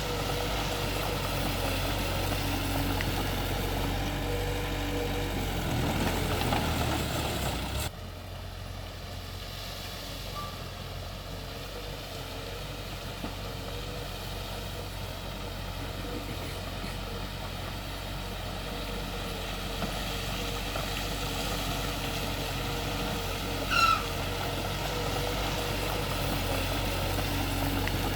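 Heavy diesel earthmoving machinery running steadily. The engine sound drops abruptly in level about eight seconds in, and a short high chirp comes near the end.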